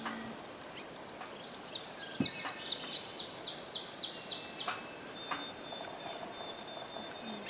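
Several songbirds singing in woodland. The loudest is a rapid run of high, quick notes from about one to three seconds in, and a thin high note is held for a couple of seconds near the end.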